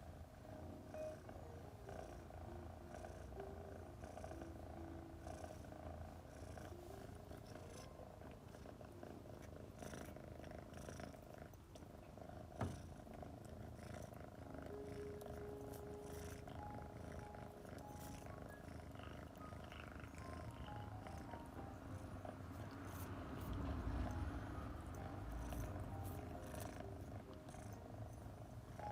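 Domestic female cat purring continuously, with one sharp click about halfway through and a louder swell of the purr for a few seconds past the middle.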